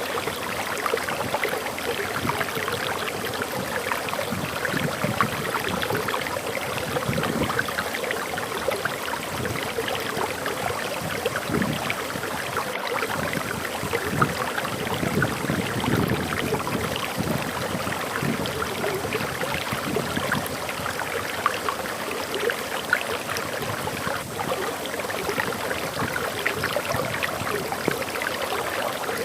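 Water pouring over a small forest waterfall: a steady splashing rush.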